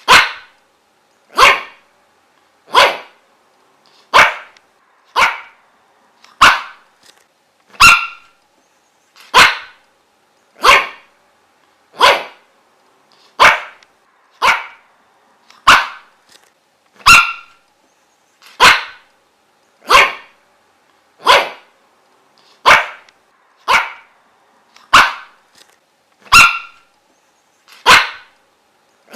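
A dog barking over and over in single, evenly spaced barks, about one every 1.3 seconds.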